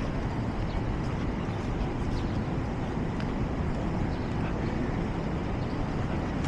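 Steady city street ambience: an even, low rumble of road traffic.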